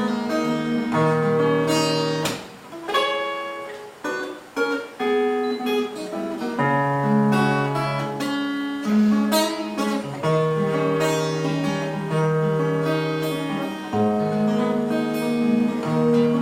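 Acoustic guitar playing alone, with ringing picked notes and occasional strummed chords.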